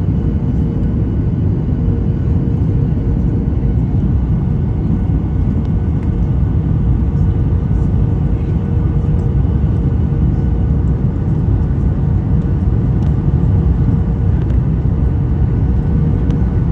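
Steady rumble of a Boeing 737's jet engines and airflow, heard inside the passenger cabin, with a faint steady hum above it.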